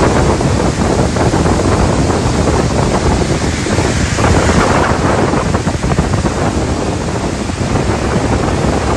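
Heavy rainstorm: a loud, steady rush of torrential rain and running water, with wind buffeting the microphone.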